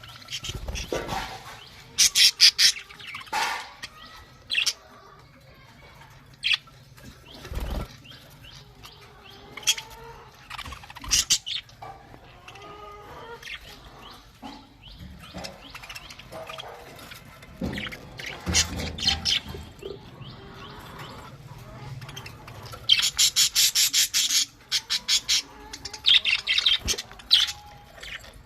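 A flock of budgerigars chirping and chattering, with several loud bursts of rapid, high-pitched chatter among scattered single chirps.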